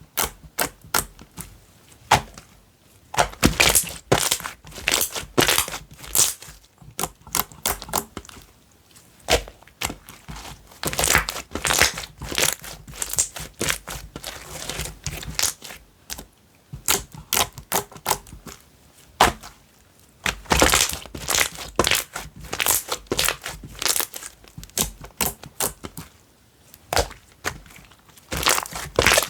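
Slime being squished, pressed and stretched by hand, giving irregular clusters of sharp clicks, pops and crackles with short pauses between handfuls.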